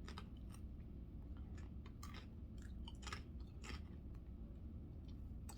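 A person chewing food: faint, irregular mouth clicks over a steady low hum.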